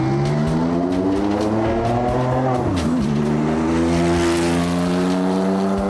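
The 9ff V400 Porsche 911's tuned flat-six accelerating hard, its pitch rising through one gear, then falling at an upshift about three seconds in before climbing again in the next gear.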